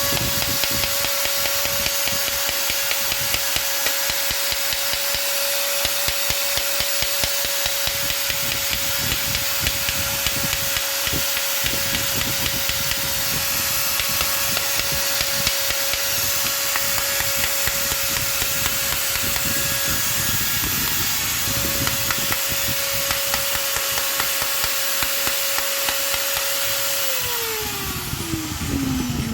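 Makita M9510 angle grinder running at full speed with no load, a steady high whine with light regular ticking. It is switched off near the end and winds down, the whine falling in pitch.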